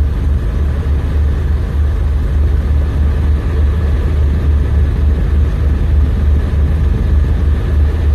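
The 1962 Ford Ranchero's engine running steadily, with a constant low drone.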